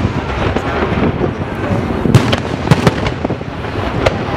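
Aerial fireworks going off in quick succession: a dense, continuous crackle of small bursts with several louder bangs, the strongest about two seconds in and just after.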